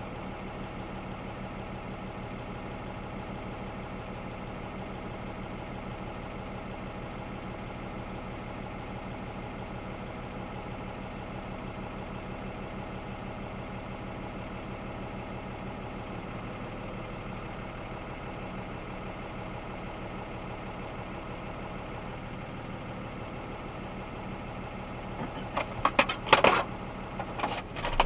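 Box truck engine running with a steady, even drone. A short burst of clattering comes near the end.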